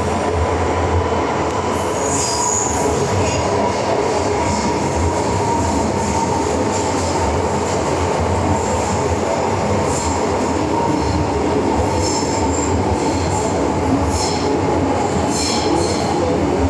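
MTR M-Train electric metro train running, with a steady rumble of wheels and running gear and a faint steady whine. Short high-pitched wheel squeals come about two seconds in and again near the end.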